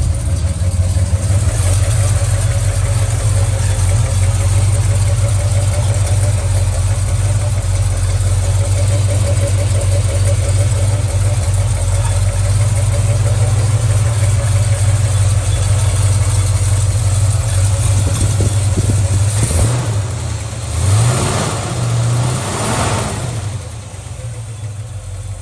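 Chevy C20 pickup's V8 with new headers idling steadily just after a cold start. About twenty seconds in, the throttle is blipped twice and the engine revs up and back down, then it settles to a slightly quieter idle.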